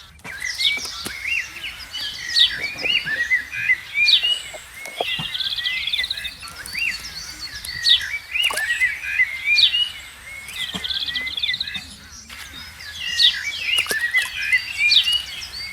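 Birds chirping and calling: many short chirps, trills and quick up-and-down whistles, high-pitched and busy.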